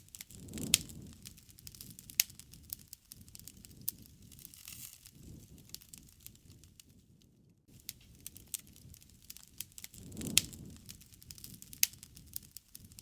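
Wood fire crackling, with sharp irregular pops and snaps over a low rumble that swells briefly about a second in and again near the end.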